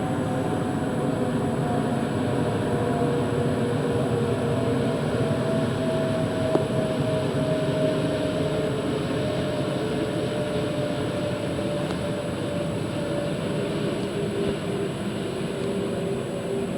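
Airbus A380's four Rolls-Royce Trent 970 jet engines running: a steady, loud rumble with a few whining tones that slowly fall in pitch.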